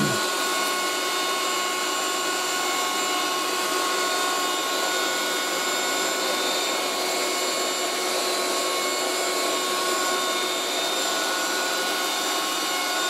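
1980s Moulinex 237/320 handheld vacuum cleaner running steadily with its crevice tool on a hard floor: a steady rush of air with a high motor whine over it, pulling with good suction.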